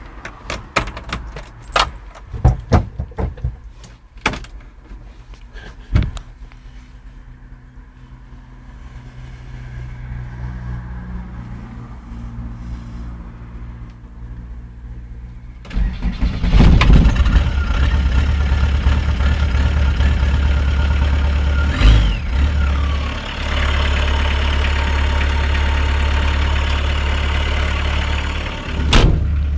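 Volkswagen T3's 1.9-litre AAZ turbo-diesel cold-started at −10 °C with its glow plugs not fully preheated. A few sharp clicks and knocks come first. Just past halfway the engine cranks briefly, catches and settles into a loud, steady diesel idle, with a sharp knock a few seconds later.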